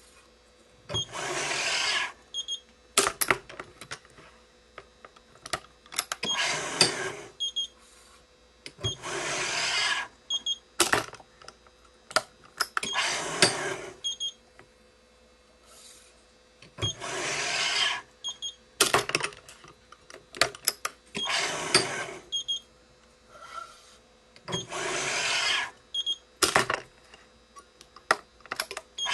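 Yonex ES5 Pro stringing machine tensioning the main strings of a badminton racket: a roughly one-second pull recurs about every four seconds, with sharp clicks and short high beeps between the pulls.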